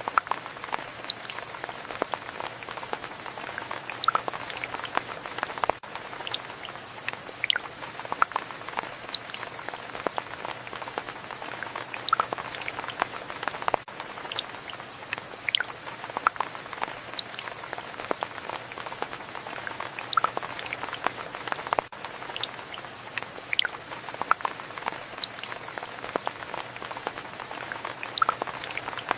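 Steady rain with many individual drops pattering on a surface, a continuous soft hiss dotted with sharp drip ticks.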